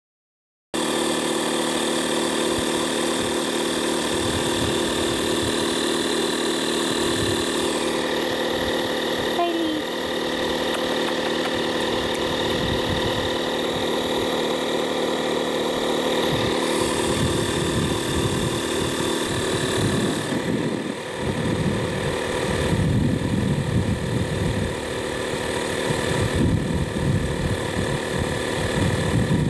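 Audew 12-volt portable air compressor running steadily as it inflates a tire, a constant buzzing hum that cuts in sharply just under a second in. An uneven low rumble joins it in the second half.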